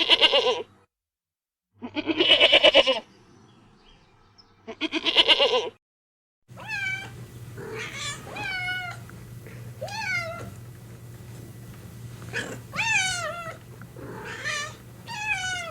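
Animal calls: three loud, wavering cries a couple of seconds apart, then a string of shorter calls that fall in pitch, over a steady low hum.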